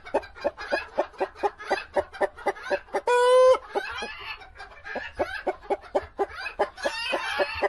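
Hens clucking: a rapid run of short clucks, about five a second, broken about three seconds in by one longer drawn-out call.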